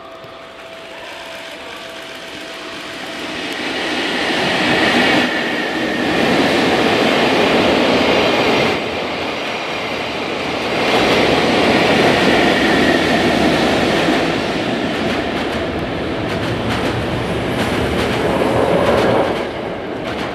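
Locomotive-hauled train of 12-series passenger coaches passing, led by electric locomotive EF65-501 with EF60-19 at the rear: a steady rumble and clatter of wheels on rail, swelling as the cars go by and dropping away near the end.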